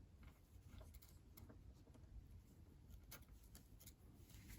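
Near silence with a few faint, scattered small clicks and rustles: bare stranded wires being twisted together by hand.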